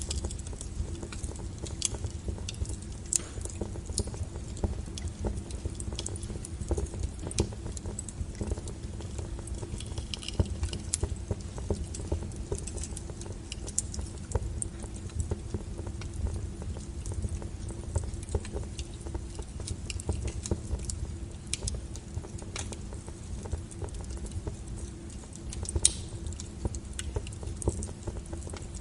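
Burning firewood crackling and popping: irregular sharp cracks over a low steady rumble of the flames, with one louder pop near the end.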